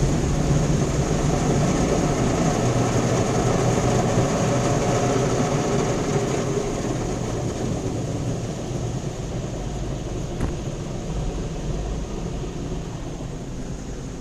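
Automatic car wash machinery running: a steady rush of noise that slowly fades over the second half, with one faint click near the end.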